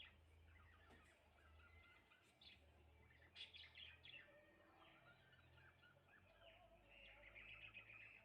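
Faint chirping of several small birds: many short chirps overlapping, busiest in the middle, with a longer run of chattering near the end.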